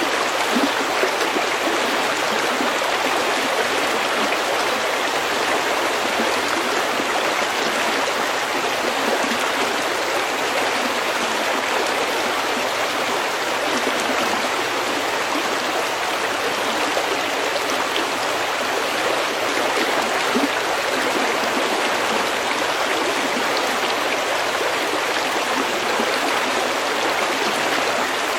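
A stream running steadily over stones, a continuous bubbling rush of water with no break or change.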